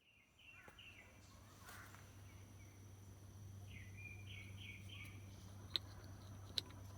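A bird singing two short runs of quick repeated chirps over a steady low hum, with two sharp clicks near the end.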